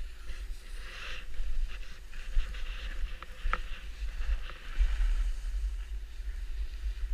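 Wind buffeting the microphone as a gusty low rumble, with patches of faint hiss and a single sharp click about three and a half seconds in.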